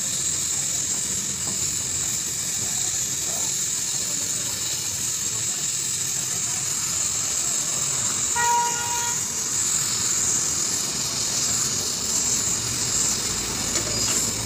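Steady hissing background noise, with a single horn toot lasting about a second just past the middle, most likely a passing vehicle's horn.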